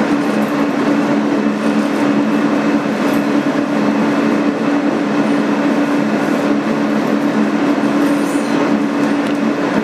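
Interior sound of a 2008 Kawasaki R-160B New York subway car: a steady drone of two low hum tones over a constant rumble and hiss, unchanging throughout.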